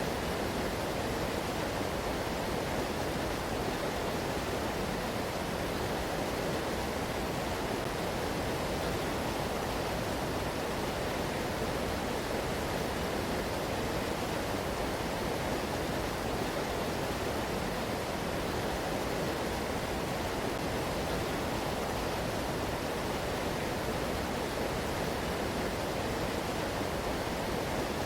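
Floodwater of the Guadalupe River rushing steadily, an even, unbroken noise that does not change.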